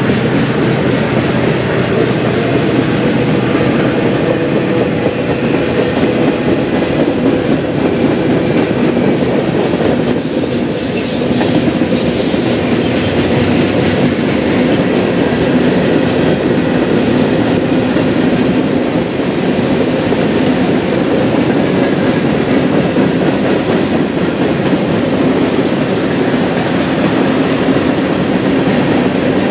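Freight train cars rolling steadily past at close range, wheels clacking over the rail joints, with a brief hiss about ten seconds in.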